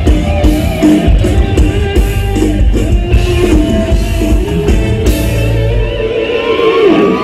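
Live Isan mor lam band music with electric guitar, bass and drum kit; the bass and drums stop about six seconds in as the song ends.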